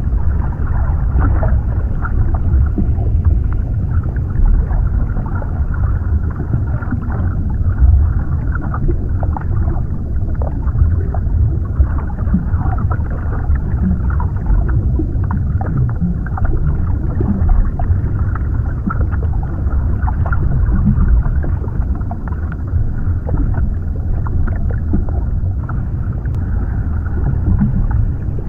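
Underwater ambience: a deep, steady rumble of water with many small scattered pops and crackles.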